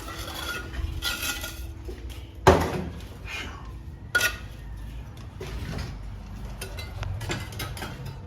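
Steel mason's trowel scraping and tapping on mortar and brick, with two sharp knocks: the loudest about two and a half seconds in and another about four seconds in.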